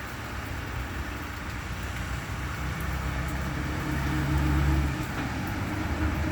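A vehicle's engine runs with a low rumbling hum that swells to its loudest about four to five seconds in, then eases. Underneath is a steady hiss of rain or wet road.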